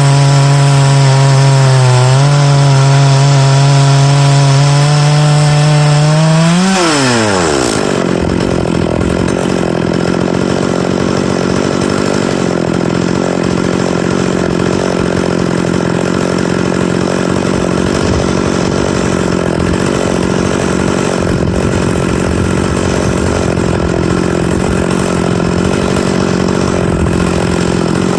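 Big-bore two-stroke chainsaw milling oak, running steadily under load in the cut. About seven seconds in it revs up sharply, then drops back and runs steadily at a lower pitch for the rest.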